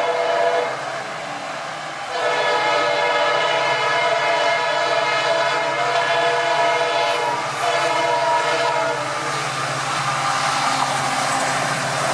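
Indian Railways train horn sounding, a short blast at the start and then a long steady blast of several tones lasting about seven seconds, over the low running of the train. Near the end the horn fades and a rushing noise of the passing train grows.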